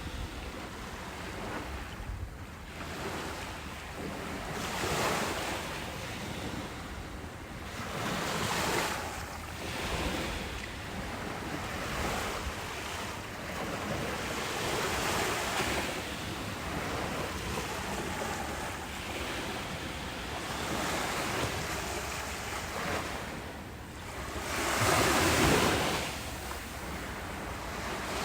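Ocean waves breaking and washing on a beach, the surf swelling and ebbing every few seconds, with one larger wave about 25 seconds in. Wind rumbles on the microphone underneath.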